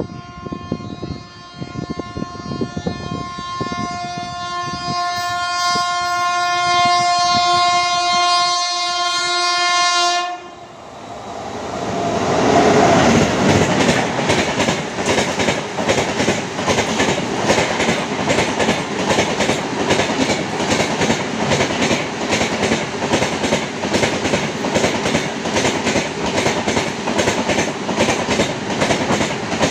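Horn of an approaching WAP-7 electric locomotive, held as one long steady chord for about ten seconds and growing louder, then cutting off suddenly. The express then rushes past through the station at about 110 km/h without stopping: steady rolling noise with rapid, regular clickety-clack of the coach wheels over the rail joints.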